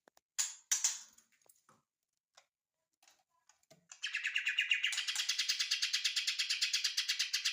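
Cucak ijo mini (a small leafbird) singing: a few sharp chirps, then about four seconds in a rapid, even, high-pitched trill of repeated notes, about ten a second.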